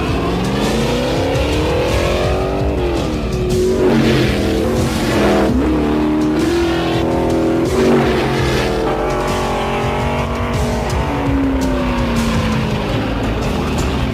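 NASCAR stock car V8 engine running hard at speed on a race track. Its pitch climbs and drops several times as it accelerates and backs off.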